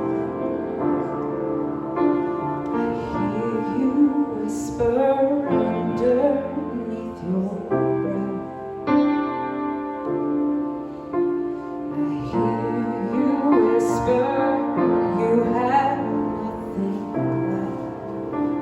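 A woman singing a slow song with piano accompaniment: held piano chords under a wavering sung melody.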